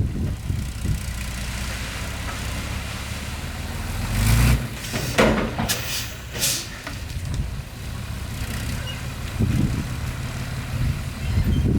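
Heavy diesel engine of a dump truck running steadily, swelling briefly about a third of the way in. Three or four short hisses of air follow near the middle.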